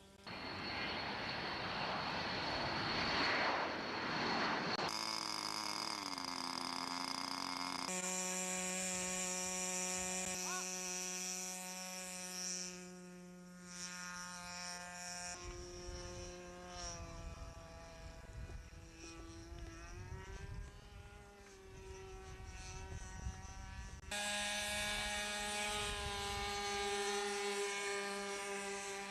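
Radio-controlled model airplane engines running in flight, in several edited clips that cut abruptly from one to the next. The engine pitch holds steady in places and rises and falls in others as the models pass and change throttle.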